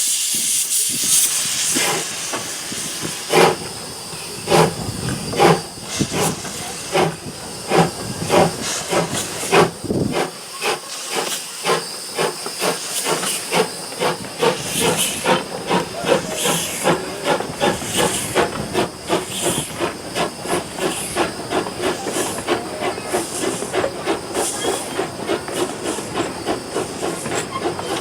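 Steam locomotive pulling away: a loud hiss of steam at the start, then exhaust chuffs about a second apart that quicken steadily to several a second as it gathers speed.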